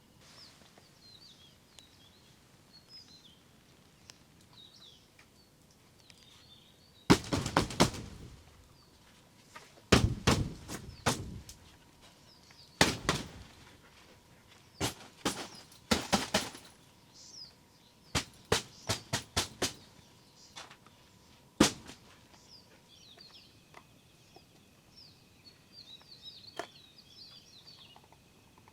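A series of sharp knocks and clatters, some single and some in quick clusters, over about fifteen seconds, with small birds chirping faintly before and after them.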